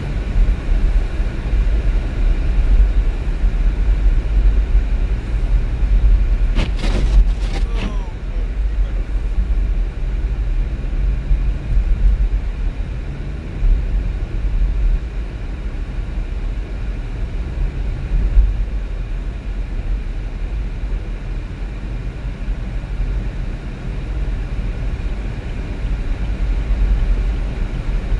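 Car driving, with a steady low road-and-engine rumble throughout and a short cluster of sharp clicks or knocks about seven seconds in.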